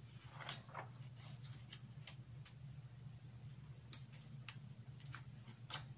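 Faint, irregular ticks and short rustles of large glossy magazine pages being handled and turned, over a steady low hum.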